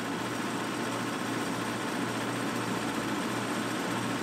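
Vehicle engine idling steadily, with a low, evenly pulsing hum under a constant hiss.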